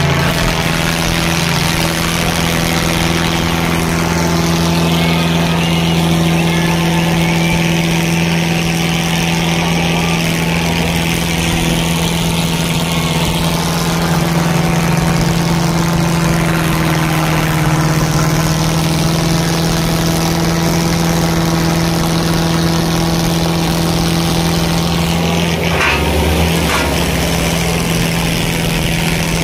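Diesel tractor engine running steadily at a constant speed.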